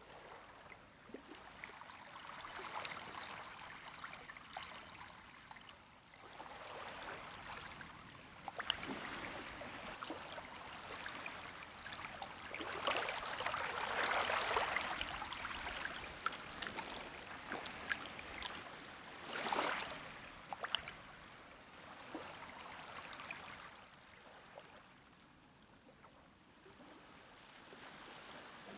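Small, gentle waves washing onto a beach: each wash swells and fades over a few seconds with a fizzing crackle as it runs up and drains back, the strongest about halfway through.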